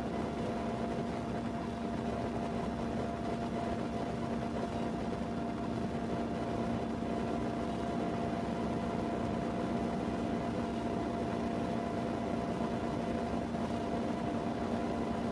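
Steady mechanical hum of a running vehicle heard from inside the cabin, with a constant low drone and a higher steady tone over an even hiss.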